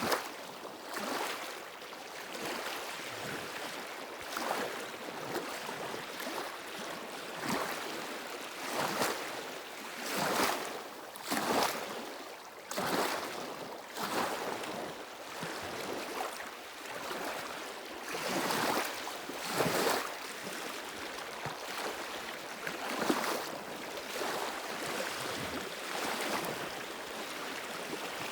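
Small sea waves washing in against shore stones, a wash every second or two.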